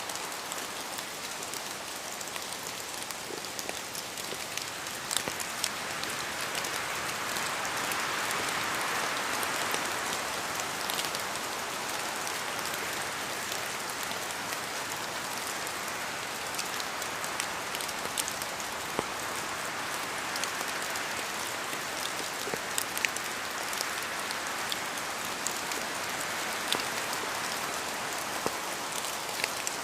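Steady rain falling in a forest, a constant hiss dotted with sharper drop hits, with wind rising and falling in two broad gusts.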